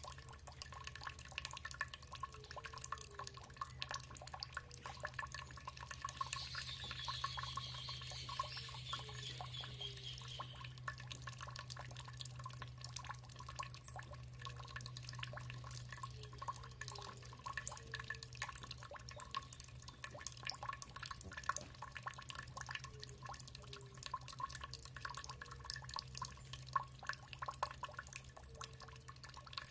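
Water dripping and trickling in a steady patter of small splashes. About six seconds in, a bird sings a falling trill of rapid notes lasting about four seconds. A steady low hum runs underneath.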